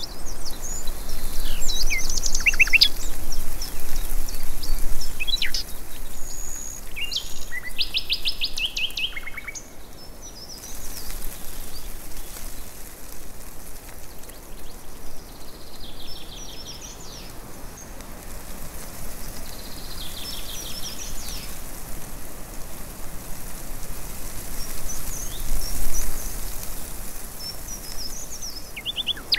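Small birds chirping and calling in short, high, rapid phrases over a steady background hiss. The calls are busiest in the first ten seconds and come back in scattered bursts later.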